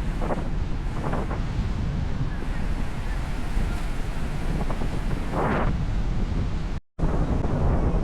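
Strong wind buffeting the microphone over the wash of waves, a dense low rumble with a few brief louder surges. The sound breaks off for an instant near the end.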